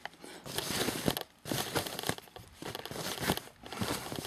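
Packaging crinkling and rustling as it is pulled off a boxed rackmount unit, in several bursts with short pauses.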